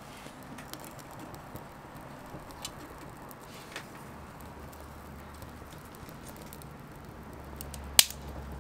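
Small wood fire crackling, with scattered light pops and one loud, sharp snap near the end.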